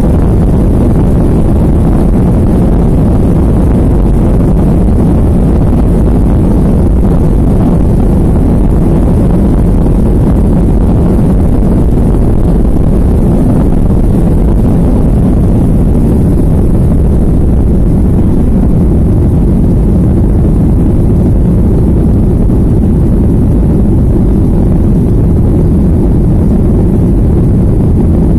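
Jet airliner cabin noise during take-off or climb: a loud, steady low rumble of engines and rushing air that holds even throughout.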